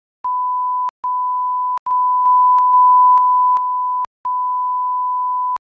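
Edited-in censor bleep: a steady 1 kHz beep tone sounding in four stretches, split by short silent gaps and faint clicks at the edits, with the original audio removed underneath.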